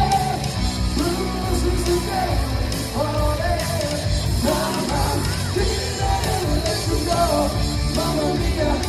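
A live rock band playing, with a singer's voice over the band and a steady heavy low end of bass and drums.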